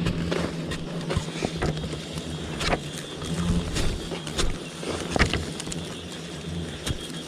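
Digging in earth to open up a ground bee nest: irregular knocks and scrapes of a tool striking soil, a few seconds apart, over a steady low hum.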